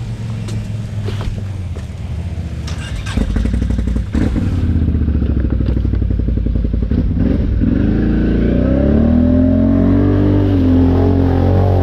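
ATV engine running at low speed, then the throttle opens about three seconds in and it gets louder. From about eight seconds in the engine note climbs and wavers as it revs.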